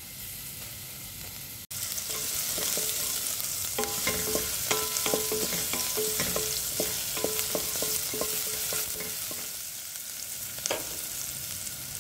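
Chopped garlic and green chilli frying in hot oil in a stainless steel pot, a steady sizzle. For several seconds in the middle a wooden spatula stirs and knocks against the pot, which rings briefly with each knock.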